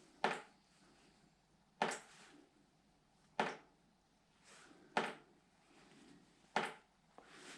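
Water drops landing at a slow, steady rate, five sharp drips about one every second and a half, from a leak that is being watched to see that it stays slow.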